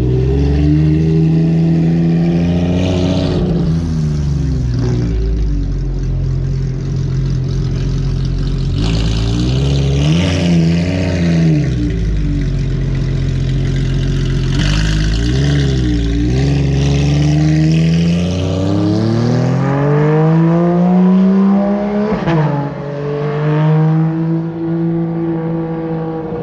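A sports car's engine running and being revved over and over, its pitch climbing and dropping with each blip. About twenty seconds in comes a longer rising rev, then it settles back to a steady run.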